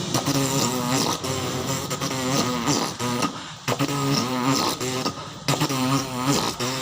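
Human beatboxing: percussive mouth clicks and hits layered with a pitched, bending vocal line, with a couple of short breaks.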